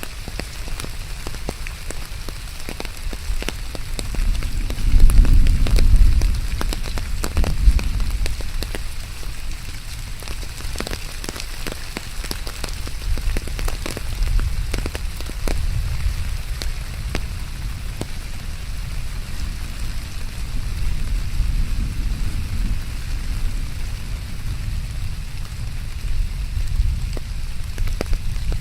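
Steady rain falling, with many close drops ticking sharply on a surface. A low rumble swells about five seconds in, then eases.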